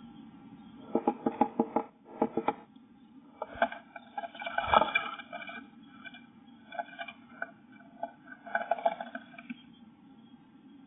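A great tit moving about inside a nest box: bursts of rapid scratching and tapping on the box floor and walls, coming in three or four short clusters.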